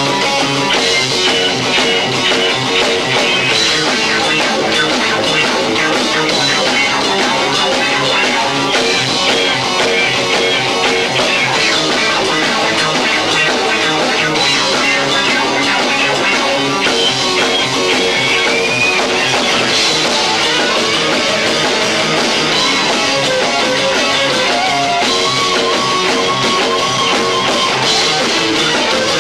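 Live rock band playing loud, distorted electric guitar over bass and two drum kits, recorded low-fi through a camcorder microphone.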